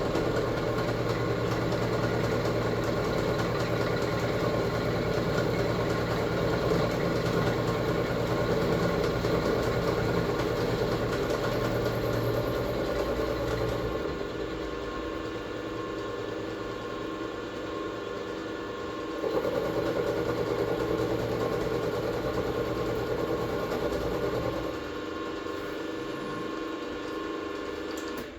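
A workshop machine's motor running steadily with a constant hum. It gets quieter about halfway through, louder again for several seconds, then shuts off at the end.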